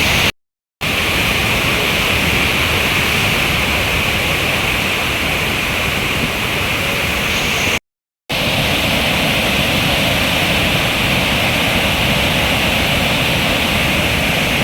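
Large waterfall in full, swollen flow: a loud, steady rush of falling water. The sound breaks off twice, for about half a second each, once near the start and once about eight seconds in.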